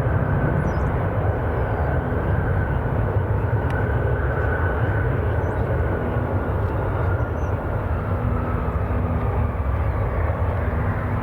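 Jet airliner engines rumbling steadily, with a faint high whine that slowly falls in pitch. A few faint bird chirps are heard above it.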